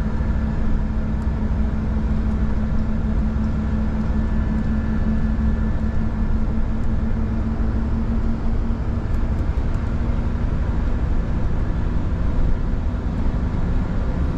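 Scania R 450 truck's straight-six diesel engine and road noise: a steady drone with a constant low hum, the truck running at an even speed.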